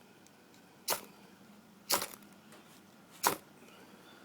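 Three sharp scraping strikes, about a second apart, of a striker on a fire-starter rod throwing sparks onto shaved powder to light a fire.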